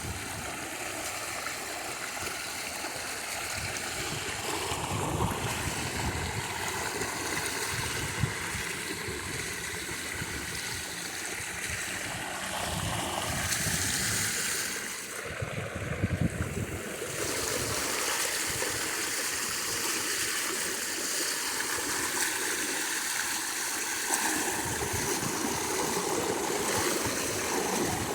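Floodwater swishing and churning steadily around a bicycle and rider moving through a deep flooded road.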